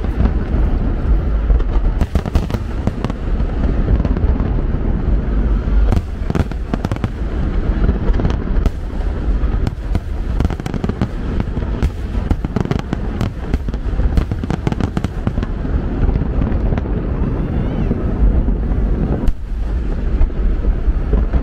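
Aerial fireworks going off in rapid succession: a continuous deep rumble of booms with many sharp cracks and crackles, with a short lull near the end.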